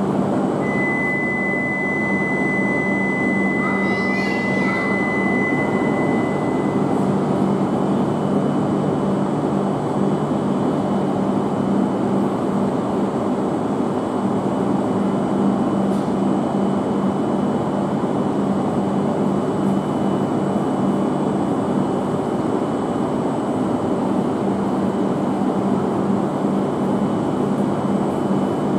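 Shinkansen train at the platform: a steady low hum and even rushing noise that neither rises nor falls. A thin high steady tone sounds through the first several seconds, then stops.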